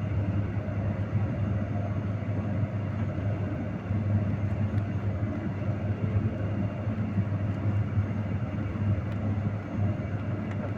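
Steady engine drone and road noise of a moving vehicle, with a strong low hum throughout.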